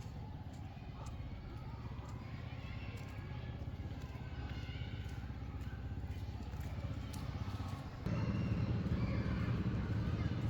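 A vehicle engine running steadily with a low, pulsing rumble that gets louder about eight seconds in.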